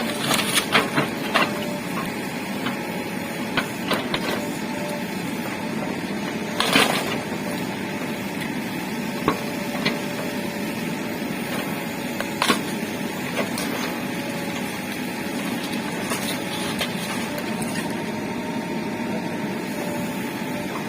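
JCB backhoe loader running steadily, with a few sharp knocks and clanks, the largest about a third of the way in and again past halfway.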